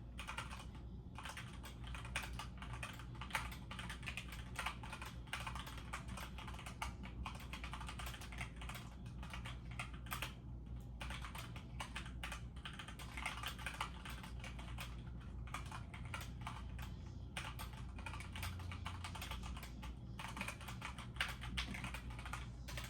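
Fast typing on a computer keyboard during a typing-speed test, a rapid run of key clicks with a few short pauses, over a low steady hum.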